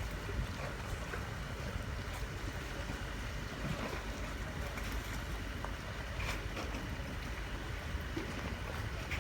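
Speedboat under way: steady engine and water noise.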